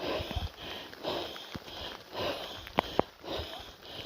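A winded hiker's heavy breathing, roughly one breath a second, from climbing a trail uphill, with a few sharp clicks between breaths.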